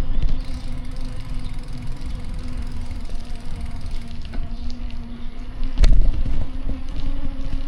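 City street traffic heard from a bicycle: motor vehicles running close by with a steady engine hum and low rumble, and a single sharp knock a little before the end.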